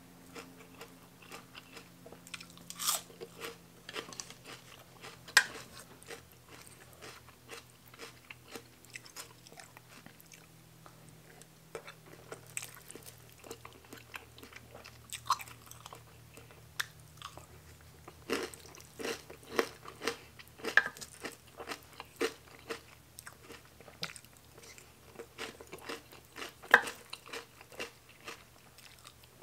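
Close-miked chewing and crunching of mouthfuls of raw vegetables, fresh pea shoots and sliced green peppers, with rice noodles in curry: irregular wet chewing broken by sharper crunches, the loudest about five seconds in and near the end.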